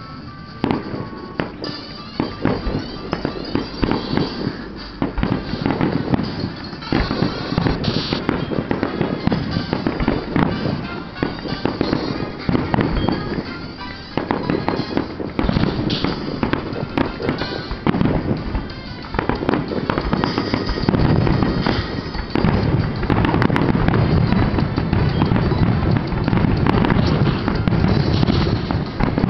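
Aerial firework shells bursting in quick succession, many bursts overlapping. The barrage grows denser and louder over the last third, in the manner of a finale.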